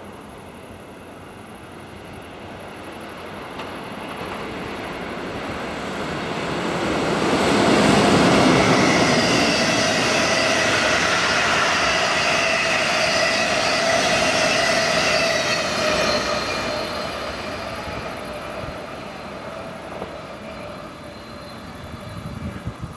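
Train passing on the line: it grows louder over several seconds, is loudest for about eight seconds with a steady whine of several tones over the rumble of the wheels on the rails, then fades away.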